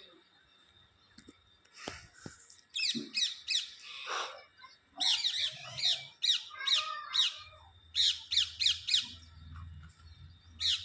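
Pet parrot squawking: runs of short, sharp, high calls, several in quick succession, with brief gaps between the runs.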